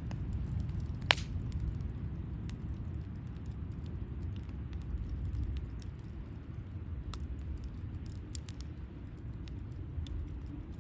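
Wood campfire crackling, with scattered sharp pops and one loud pop about a second in, over a steady low rumble.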